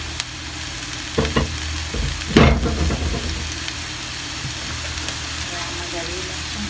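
Chopped onion sizzling steadily in hot olive oil in a nonstick frying pan. A few light knocks come about a second in, and a louder clatter about two and a half seconds in.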